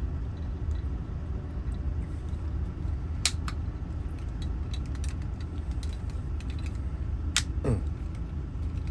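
Small metallic clicks and light ticks from the parts of a Honda ignition lock cylinder being handled and fitted together, with two sharp clicks about three seconds in and again near the end, over a steady low hum.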